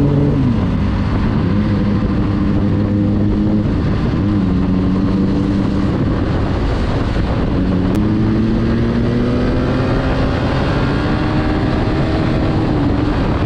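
Motorcycle engine running under way with a constant rush of wind noise; its pitch holds or climbs slowly and drops sharply a few times, near the start, about four seconds in and near the end.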